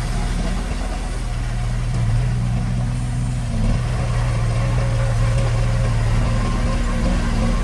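Heavy construction-machine diesel engine running steadily, with a low, even engine tone that shifts slightly about three and a half seconds in.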